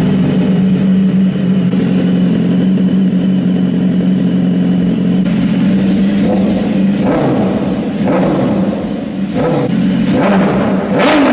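Superbike engine running steadily through its exhaust, then revved a few times from about seven seconds in, the pitch rising and falling with each blip.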